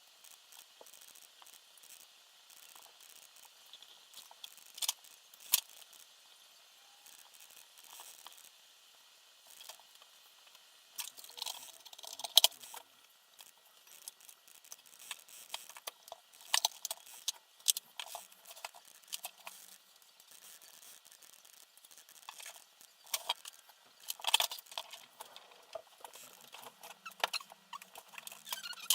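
Scattered small clicks, taps and rattles from small parts being handled during assembly work, irregular throughout, with the sharpest click about twelve seconds in.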